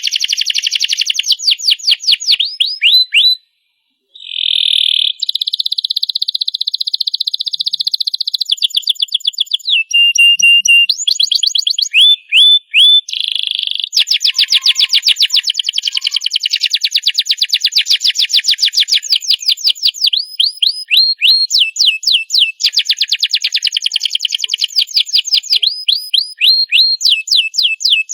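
Domestic canary singing a long, varied song of fast trills and rolls of quickly repeated rising notes, broken by a short pause about three and a half seconds in.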